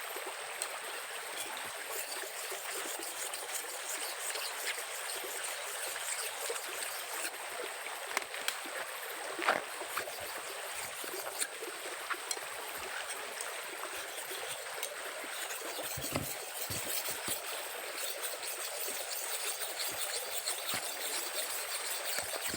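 Stream water running and trickling steadily, with a few faint knocks scattered through it.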